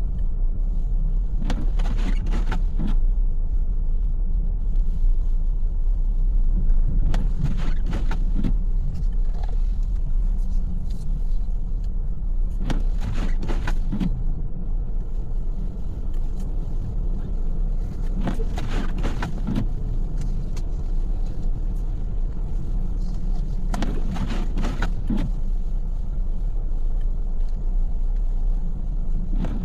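Car driving on a snowy road, heard from inside the cabin: a steady low road and engine rumble. A short burst of sharper noise comes back about every five and a half seconds.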